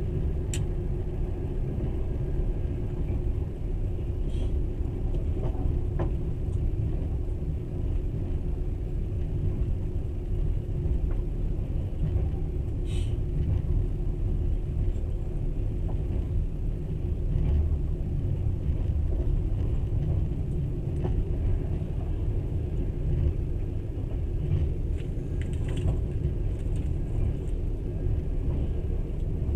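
Passenger train running along the track, heard from inside the carriage: a steady low rumble of wheels on rails with a faint hum, and a few brief faint squeaks and clicks, the clearest about 13 seconds in.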